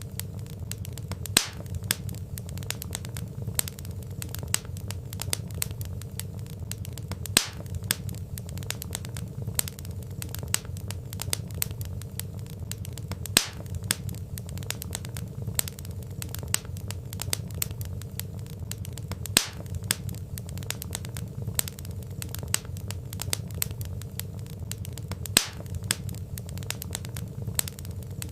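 Wood fire crackling: a steady low rumble of flames under dense small crackles, with a sharper, louder pop about every six seconds.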